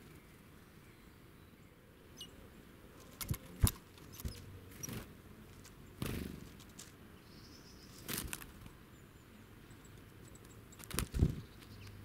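Small birds hopping and landing on a log close to the microphone, making scattered sharp taps and knocks, the loudest a few seconds in and near the end. A whir of wings sounds as one bird takes off about six seconds in.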